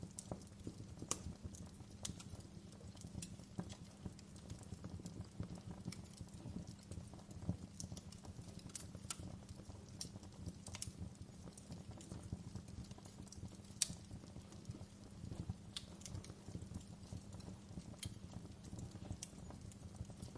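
Wood fire burning in a fireplace: a steady low rumble of flames with dense fine crackling and scattered sharp pops about once a second, one louder pop about two-thirds of the way through.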